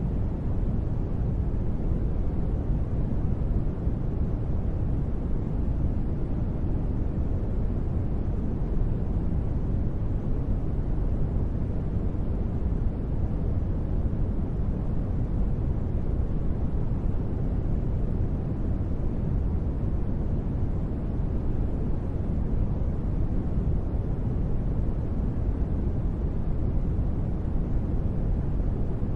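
Steady ambient noise bed of the relaxation kind, deep and rumbling, heaviest in the bass and thin in the treble, with no change or events.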